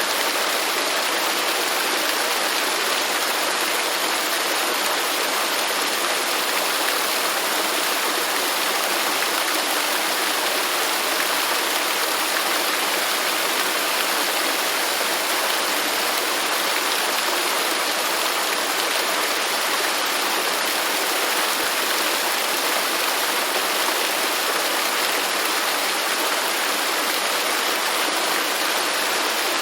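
Waterfall: a steady rush of falling water, even and unbroken, with most of its energy in the mid and high range and little low rumble.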